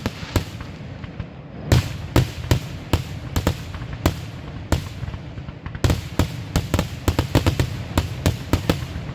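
Fireworks going off: a string of sharp bangs at irregular intervals over a low rumble, coming thick and fast in a rapid run from about six seconds in.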